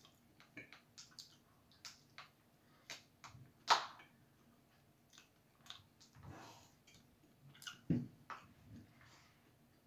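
A person chewing pizza close up, with scattered soft mouth clicks and crunches. The loudest crunch comes a little under four seconds in, and a dull knock about eight seconds in.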